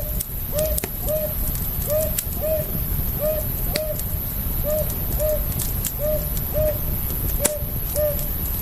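Campfire crackling with scattered sharp pops over a steady low rumble. A short hooting call repeats about every half second, each note rising and falling in pitch.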